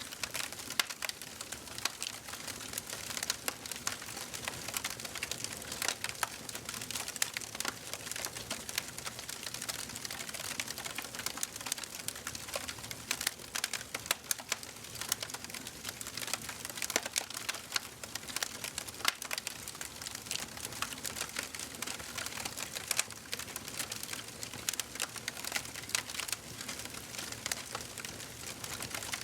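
Wood fire burning in a fireplace, a steady hiss with many sharp, irregular crackles and pops.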